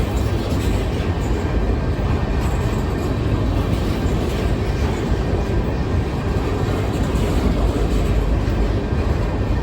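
Freight train of grain hopper cars rolling past: a steady, loud rumble of steel wheels on rail.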